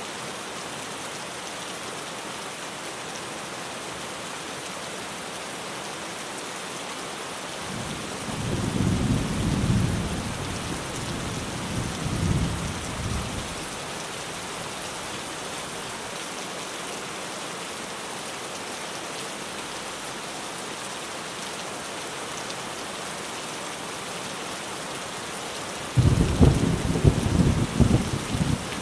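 Steady heavy rain drumming on a tin roof, with a long rumble of thunder rolling in about a third of the way through and a sharper, louder crack of thunder that starts suddenly near the end.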